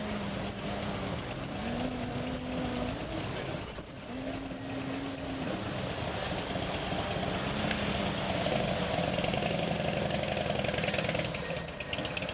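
A motor vehicle engine running steadily amid general background noise, with its hum shifting in pitch a few times and growing louder about two-thirds of the way in.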